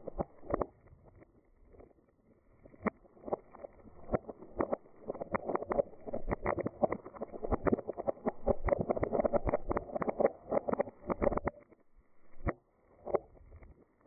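Dried beans rattling: scattered small clicks that thicken into a continuous rolling rush from about five seconds in, then thin out to scattered clicks again near the end.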